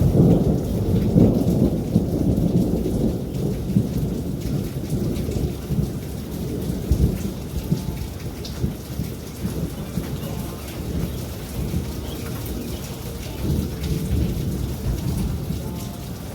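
Thunderstorm: rolling thunder over steady rain. The low rumble is strongest in the first few seconds, then rumbles on more softly under the rain.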